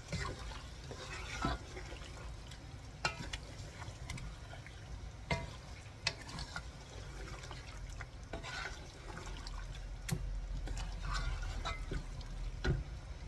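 Chicken and onions simmering in their own juices in a pot, a steady watery bubbling, with a few sharp clinks scattered through it.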